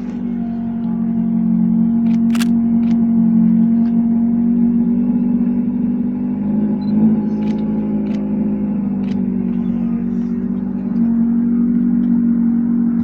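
A car engine idling steadily close by, heard from behind the car, with a few short sharp clicks over it.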